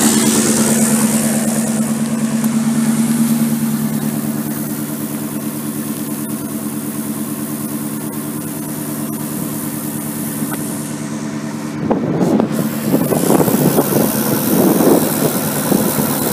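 Car engine idling steadily, the noise of an engine with an exhaust leak at the front. About twelve seconds in, the sound turns louder and rougher.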